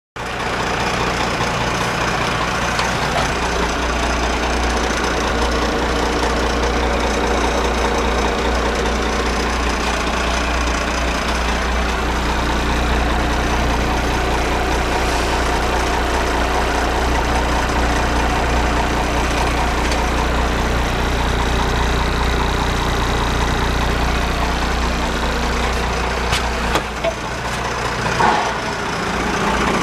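1990 M931A2 military semi tractor's Cummins 6CTA8.3 turbo-diesel inline-six idling steadily, with a deep low hum. There are a few brief knocks and dips near the end.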